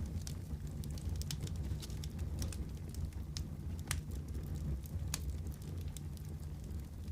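Wood fire crackling in a fireplace: a steady low rumble of flames with irregular sharp pops and snaps, a few louder ones in the middle.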